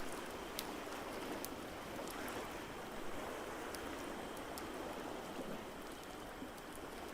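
Ocean waves washing in a steady roar of surf, with a wood fire crackling over it in scattered sharp pops.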